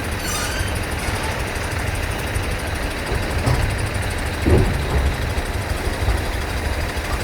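A heavy engine running steadily with a low rumble, with a brief louder knock about four and a half seconds in.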